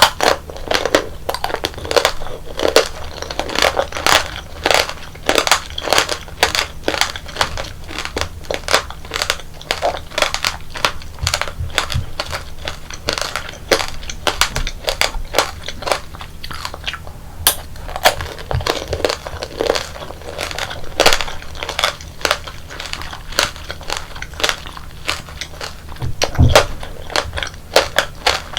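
Close-miked crunching and chewing of tanghulu: the hard candy shell on the fruit cracking between the teeth in many sharp, irregular crunches, mixed with wet chewing.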